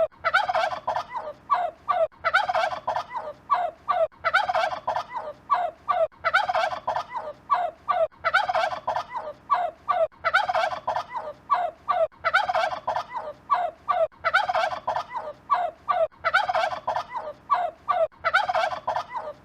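Turkey gobbling over and over, each gobble a quick rattling run of notes, one roughly every two seconds.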